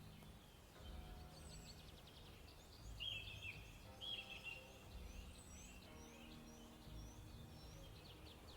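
Faint birdsong: several small birds chirping, with quick slurred notes and short trills repeated throughout.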